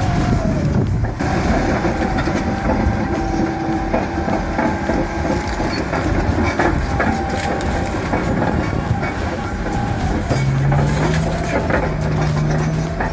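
Heavy machinery running steadily with continuous rattling and metallic clanking.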